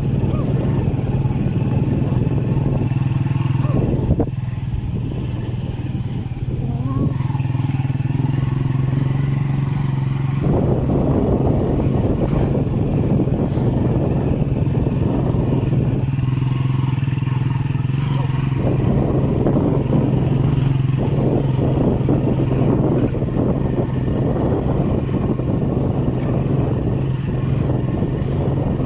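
A vehicle engine running at a steady pitch, a constant low hum, with road or wind noise above it that changes in stretches and dips briefly about four seconds in.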